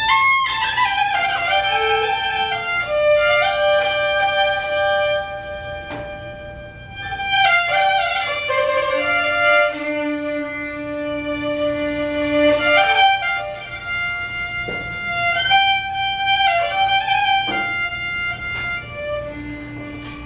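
Bowed string instrument playing long held notes in a slow improvised line, sliding between some of them. A lower held tone sounds beneath it at times.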